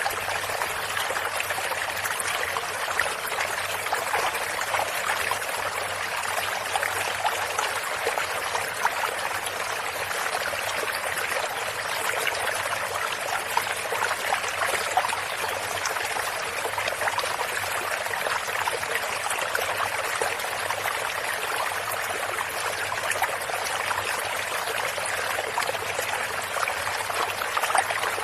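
Shallow stream running and trickling steadily over stones, a continuous babble of moving water.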